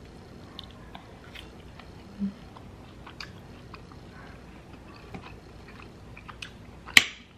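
Close-up chewing of a bite of steak, with many small wet mouth clicks; a short hum about two seconds in. A single sharp click near the end is the loudest sound.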